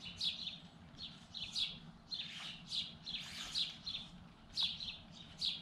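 Small birds chirping: a quick, irregular series of short, high chirps, several a second, over a faint low hum.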